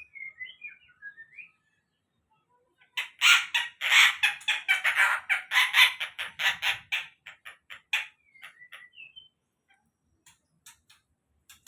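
Stork-billed kingfisher (tengkek buto) calling. A few soft whistled gliding notes come first. About three seconds in comes a loud run of harsh, rapid cackling notes lasting some five seconds, then it tails off into scattered notes and a short whistle.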